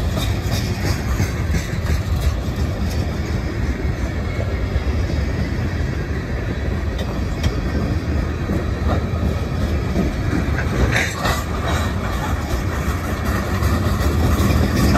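Freight train of hopper and tank cars rolling past at close range: a steady low rumble with wheel clatter on the rails, and a couple of sharper clanks about eleven seconds in.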